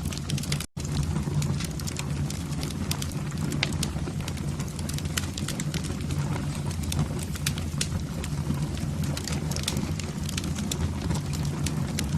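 Wood fire burning in a fireplace: constant crackling and popping over a steady low rumble of flame. The sound cuts out for an instant less than a second in.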